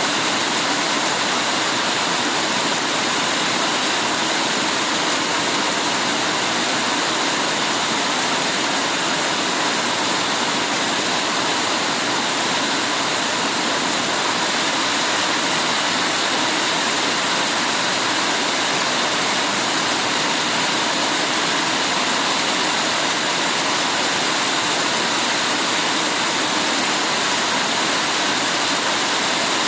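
Heavy rain falling in a steady, dense downpour, an even hiss with no single drops or breaks standing out.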